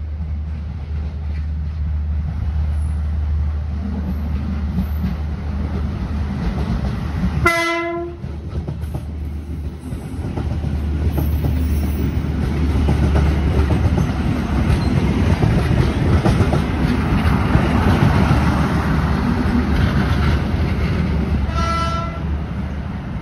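Kedung Sepur diesel multiple-unit train passing close by: a steady low rumble that builds to its loudest as the carriages go past, with wheels clattering over the rails. It sounds one short horn blast as it nears, and a second, fainter one near the end as it runs away.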